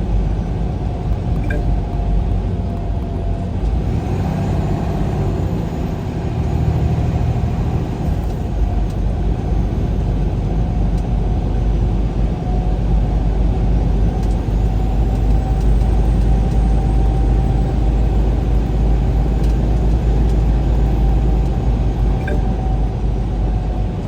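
Engine and road noise of a moving vehicle, heard from inside the cab: a steady low rumble with a faint steady whine above it.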